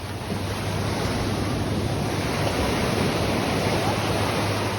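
Ocean surf breaking and washing up the beach: a steady rush of water that swells about a third of a second in and eases slightly near the end.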